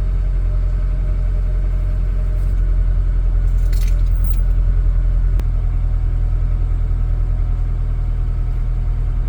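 Honda Element's four-cylinder engine idling steadily, with a brief light rattle a little before the middle and a single click about five seconds in.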